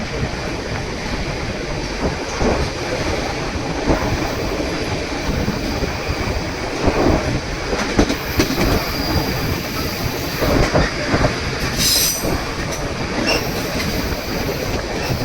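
Narrow-gauge passenger train rolling along the track: steady rumble and rattle of wheels on rails, with faint wheel squeal and a brief sharper squeal about twelve seconds in.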